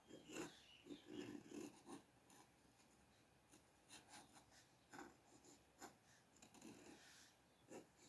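Faint, scratchy strokes of a drawing tool on paper: a run of short scratches, busiest in the first two seconds.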